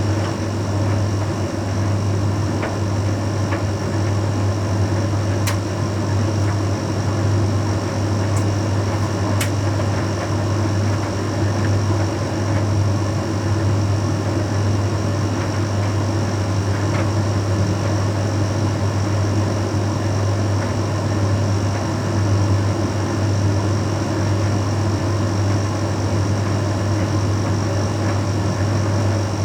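Bosch Series 6 heat pump tumble dryer running mid-cycle: a steady low hum from the machine with the drum turning, and a couple of faint clicks.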